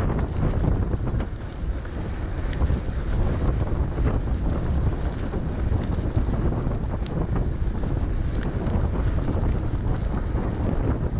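Wind buffeting a GoPro's microphone during a bike ride, a steady low rumble with a few faint ticks.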